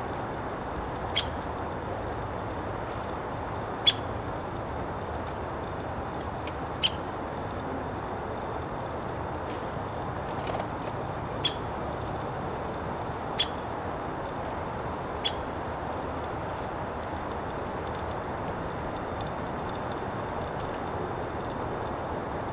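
Female downy woodpecker giving short, sharp single call notes every one to three seconds, some loud and some faint, over a steady background rumble. She is calling at her nest box before going in to roost.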